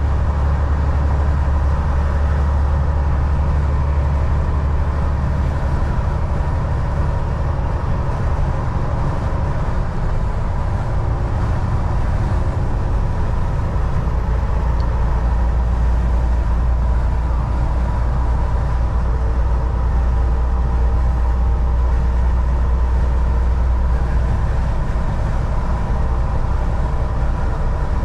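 Volvo VNL 760 semi truck cruising on the highway, heard from inside the cab: a steady, deep engine drone under road and tyre noise.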